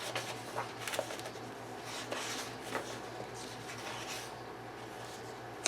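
Paper pages of a paperback colouring book being turned one after another, a few soft swishes and light paper clicks over a faint steady hum.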